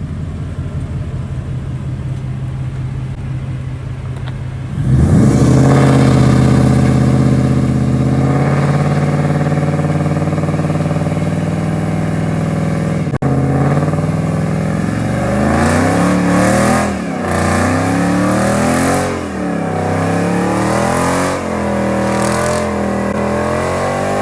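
A car engine idling, then revved hard about five seconds in and held at high revs; through the second half the revs swing up and down again and again.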